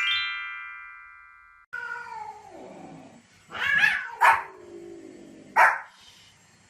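A short rising run of chime tones that rings and fades, then a dog's long whine falling in pitch, followed by three short barks.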